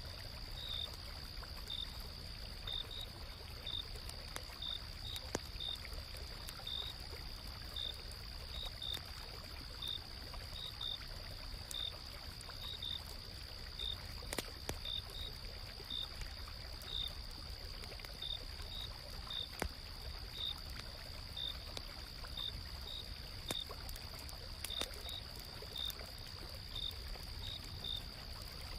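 Autumn-night insects: a steady high trill with separate short chirps about once a second, over the low rush of a flowing stream, with scattered sharp crackles from a campfire.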